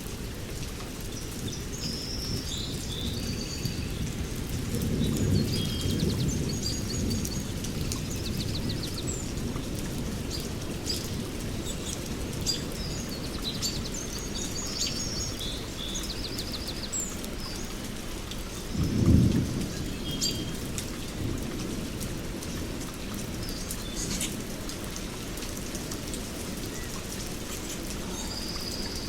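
Steady rain with thunder rumbling: a swelling rumble about five seconds in and a short, loud thunderclap about nineteen seconds in. Birds chirp and trill throughout over the rain.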